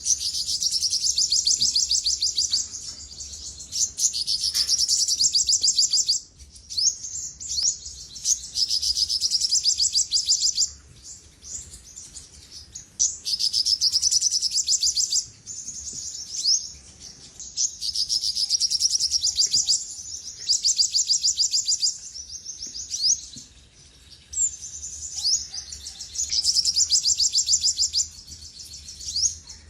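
Olive-backed sunbird singing: high, rapid trilled phrases of a second or two each, repeated with short pauses.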